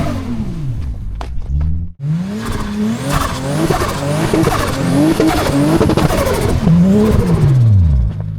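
Turbocharged 1G inline-six in a Lexus IS revving hard and unevenly while drifting, its pitch rising and falling over and over. The sound cuts out sharply for a moment about two seconds in, and the revs drop away near the end.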